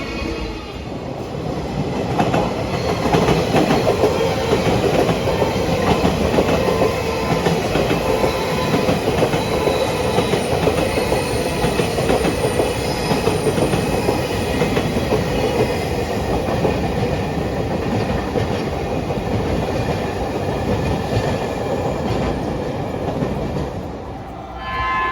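Train running on rails, its wheels clacking over rail joints in a steady run of clicks; the sound eases shortly before the end.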